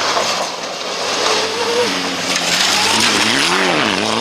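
Rally car engine at full throttle, its pitch stepping up about two seconds in, then rising and falling back near the end, over a steady hiss of tyre and road noise.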